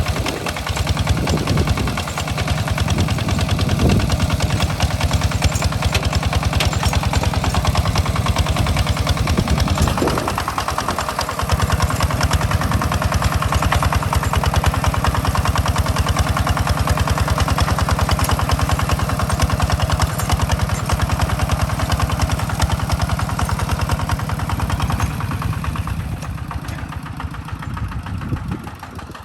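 Small tractor's engine running steadily with a fast, even chug, as it works a rice paddy. The sound eases off near the end.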